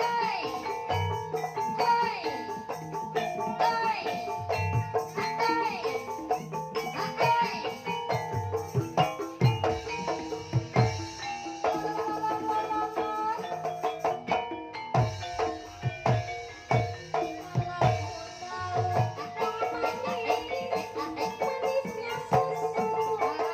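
Banyumas-style Javanese ensemble music: tuned struck keys play interlocking melodic patterns over repeated deep hand-drum beats.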